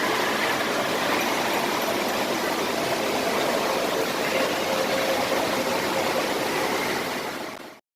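Steady rushing water noise, fading out and cutting to silence near the end.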